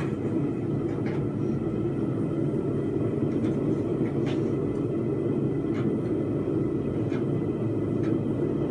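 Gas forge burner running with a steady roar, with a few faint ticks scattered through.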